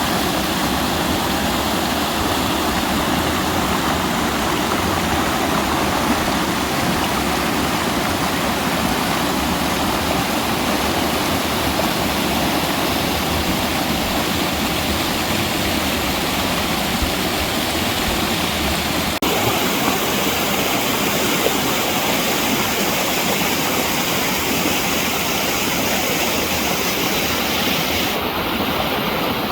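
Rapid creek water rushing over rocks, a steady even rush. Its tone shifts abruptly about two-thirds of the way through.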